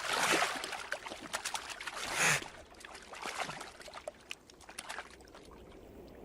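Two male river otters fighting in the water: splashing and scuffling, loudest about two seconds in, then thinning to scattered small splashes and drips.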